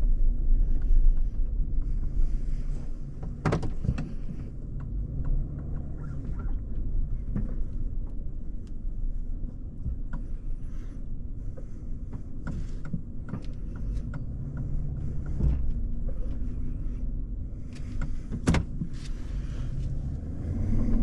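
A vehicle driving, heard from inside the cab: a steady low engine and road rumble, with a few short clicks and knocks.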